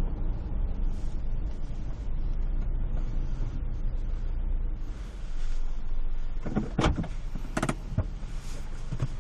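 Car moving slowly, its low rumble heard inside the cabin, with two short, sharper mechanical sounds about six and a half and seven and a half seconds in.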